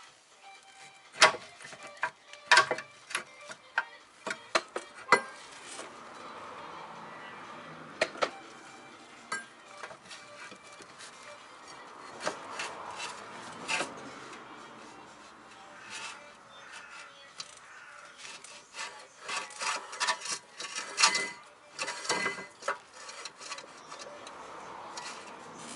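Sharp metal clinks and knocks over a scraping rub as the Mercedes W221's rear parking-brake parts are fitted and seated. The knocks come one by one, then bunch together near the end.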